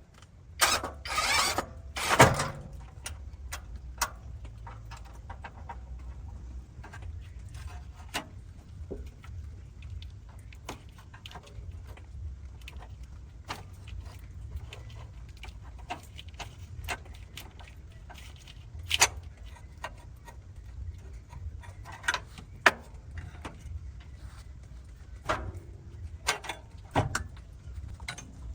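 Workshop handling sounds: scattered clicks and knocks over a steady low rumble, with a louder run of knocks about a second in.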